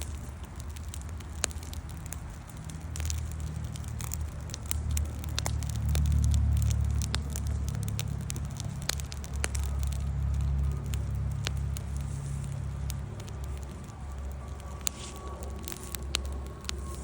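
Wood campfire burning, with irregular sharp crackles and pops over a low rumble that swells about six seconds in. A faint thin whistle joins in the last few seconds.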